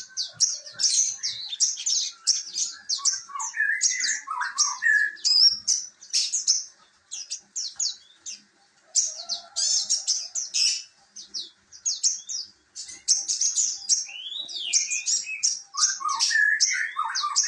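Small birds chirping and twittering in quick high notes, mixed with some lower warbling phrases, with a couple of short pauses.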